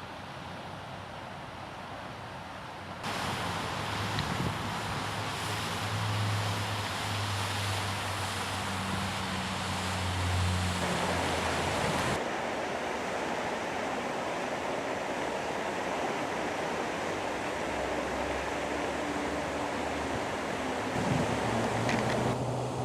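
Wind buffeting the microphone over the low rumble of car engines running at low speed. The sound changes suddenly about three seconds in and again about twelve seconds in.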